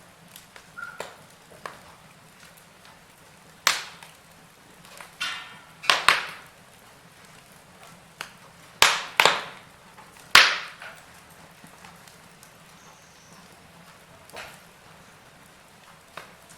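Wood fire in a fireplace crackling, with a handful of sharp pops, the loudest about 4, 6, 9 and 10 seconds in, over a faint steady hiss.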